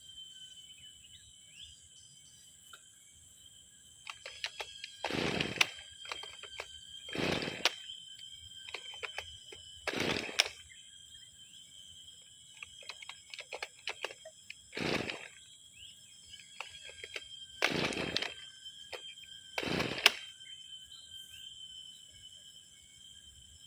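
Brushcutter's recoil pull-starter yanked six times at uneven intervals, each pull a short rasping stroke with clicks of handling between; the two-stroke engine does not catch, as expected of a trimmer left unused for six months.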